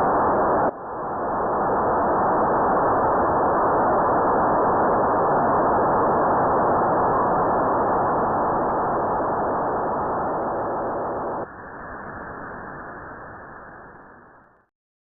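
Single-sideband receiver static from an RTL-SDR with no station on frequency: an even hiss with nothing above about 2 kHz. It breaks off briefly just under a second in, drops in level about eleven seconds in, then fades out.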